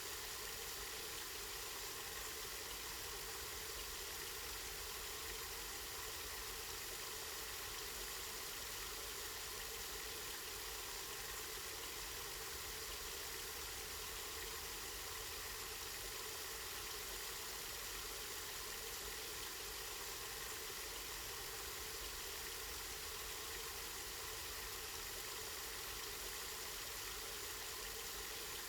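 Water from a spring running steadily.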